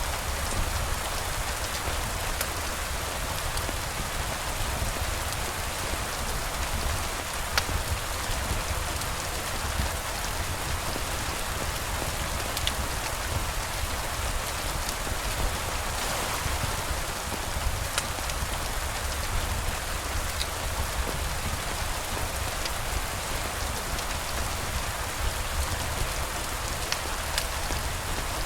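Steady rain falling: an even hiss with a few scattered sharp ticks.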